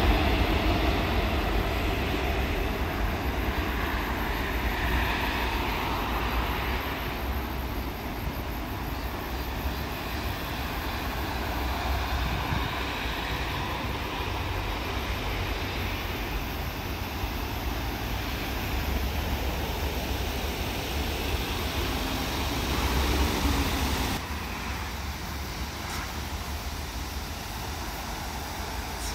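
Seoul Subway Line 4 electric train running away along an elevated concrete viaduct, its noise fading over the first several seconds. Steady road traffic noise from a busy intersection follows, with a sudden drop in level about four-fifths of the way through.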